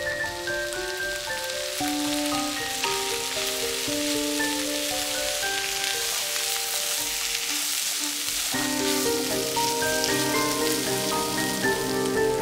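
Chickpeas and diced vegetables sizzling in a hot frying pan over medium-high heat as they are stirred with a spatula, under gentle background music whose lower notes come in about two-thirds of the way through.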